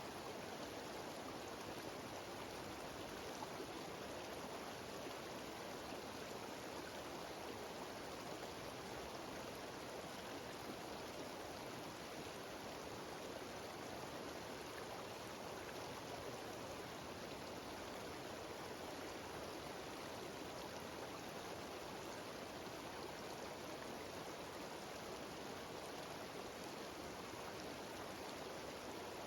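Mountain stream cascading over rocks in a small waterfall: a steady, even rush of water.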